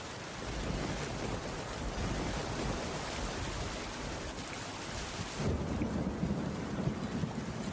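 Steady rainfall with low rolling thunder, which swells into a deeper rumble for the last two seconds.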